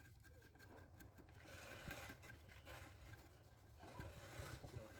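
Near silence: faint background noise with a few soft knocks.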